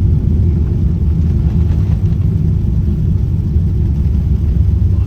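Steady low rumble of a Boeing 787 airliner heard from inside the cabin during its landing, with no distinct bumps or changes.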